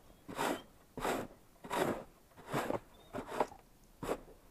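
Footsteps crunching in packed snow at a steady walking pace, about one step every three-quarters of a second.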